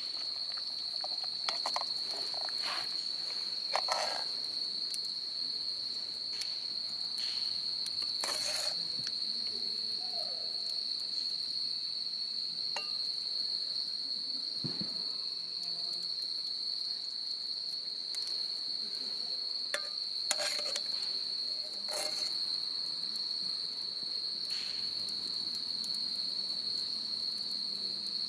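Crickets chirring in one steady, unbroken high note, with a few scattered light clicks and knocks on top.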